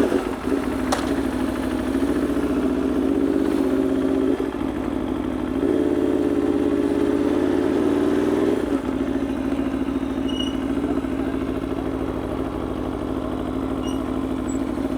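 Aprilia Tuono V4 motorcycle's V4 engine idling steadily, its idle rising slightly for a few seconds in the middle.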